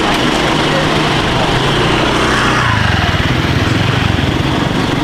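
Small petrol engine running steadily, its note changing about three seconds in.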